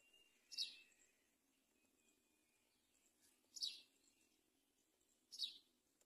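A bird calling three times, each call a brief high note sweeping downward, the calls about three seconds and then two seconds apart; between them, faint thin high whistles.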